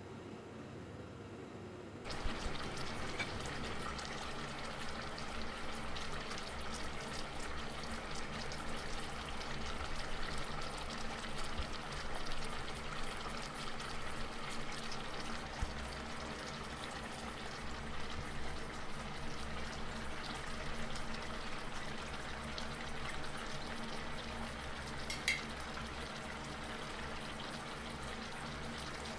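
Soup broth bubbling at a simmer in a pan on a gas burner while it is stirred with a wooden spoon. The bubbling steps up in level about two seconds in, and a single sharp click sounds near the end.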